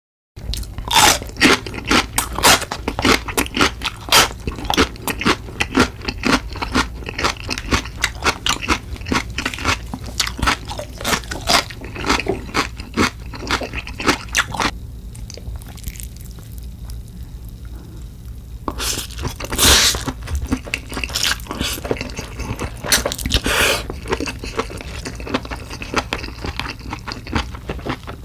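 Close-miked, ASMR-style crunching as a person bites and chews a crisp raw green chili pepper. Sharp, crisp crunches come thick and fast, ease off for a few seconds past the middle, then return with some of the loudest bites.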